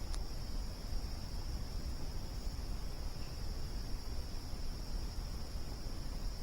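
Crickets trilling steadily at one high pitch over a low, continuous rumble, with a single sharp crack from the campfire just after the start.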